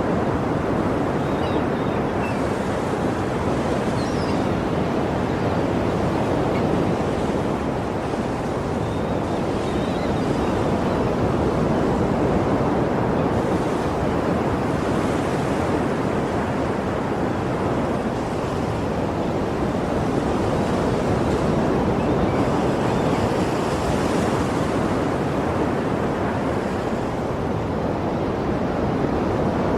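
Ocean surf washing steadily, a continuous rush of water that swells and eases gently about every ten seconds.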